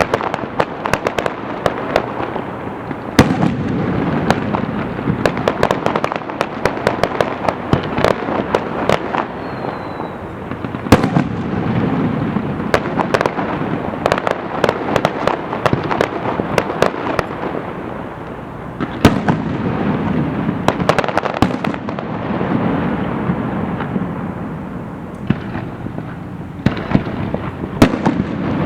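Aerial fireworks bursting in a dense, continuous barrage: many sharp cracks and bangs every second over a rolling rumble of booms that swells and eases in waves. A brief whistle falls about ten seconds in.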